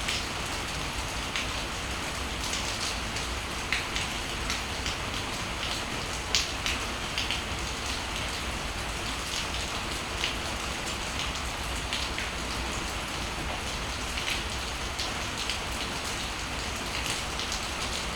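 Steady rain falling, with individual drops ticking sharply and irregularly on a hard surface close by.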